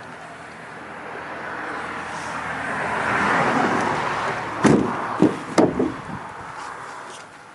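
A rising rush of noise, followed by a few heavy thumps in quick succession, consistent with a pickup truck's door being shut.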